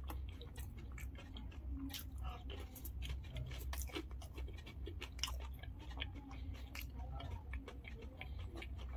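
Close-miked chewing of mouthfuls of dahi puri: irregular wet mouth clicks and soft crunches of the fried puri shells, over a steady low hum.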